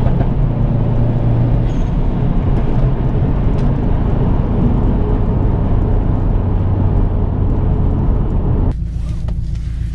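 Subaru WRX STI's turbocharged flat-four engine running steadily at cruise, heard from inside the cabin, with road noise. Near the end the sound cuts to a quieter, steady engine hum.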